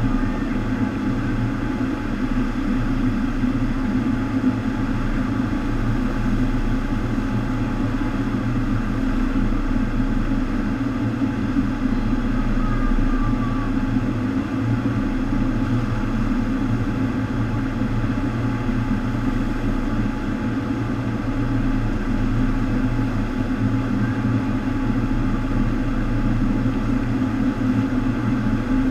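FlowRider sheet-wave machine running: a steady rush of pumped water with a low hum underneath, holding the same level throughout.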